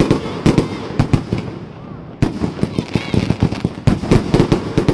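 A 600-shot fireworks cake firing in a rapid string of launch thumps and bursts. The firing thins out for about a second, then picks up densely again from a little after two seconds in.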